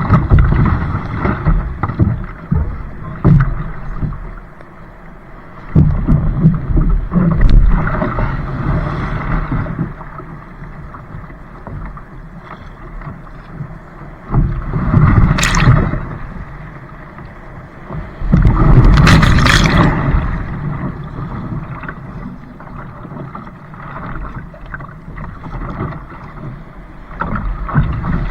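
Wind rumbling on the microphone in gusts, with water splashing around a kayak; two sharper splashes come a little past halfway and again about two-thirds through.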